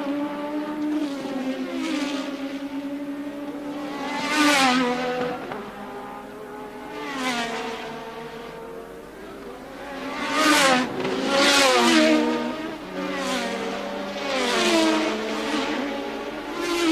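1983 Formula One cars passing one after another at high revs, each engine note rising in loudness and dropping in pitch as it goes by, with the next car often heard over the last.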